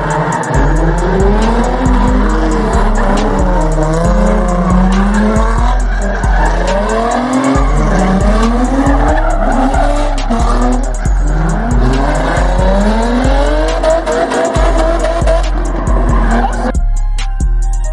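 A car in a burnout pit spinning its tyres: tyre squeal and engine revving rising and falling over and over, over a heavy music bass. About 17 s in it cuts to music alone.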